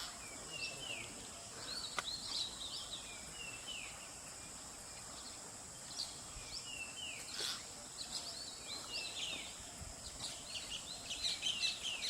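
Wild birds calling: many short chirps and quick sliding whistles, getting busier near the end, over a steady high-pitched hiss.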